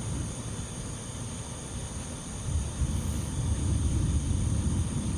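Distant thunder rumbling low, swelling about halfway through and rolling on unevenly, over a steady high chirring of insects.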